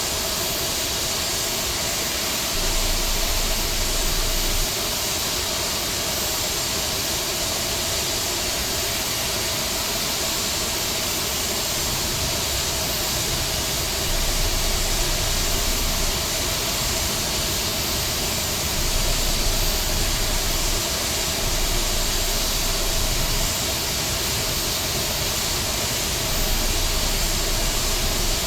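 Steady hiss of an Airbus A321neo's engines and air system heard from on board, on the ground after landing. A low rumble swells for a second or two several times.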